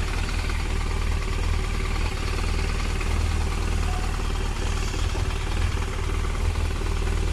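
BMW R1200RT's flat-twin boxer engine idling steadily, with no revving.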